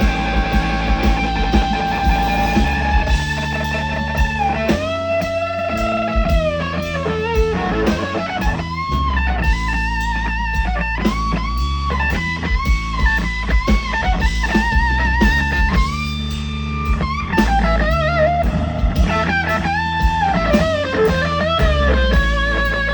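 Live electric blues guitar solo, the lead line full of bent notes and wavering vibrato, over bass guitar and drums.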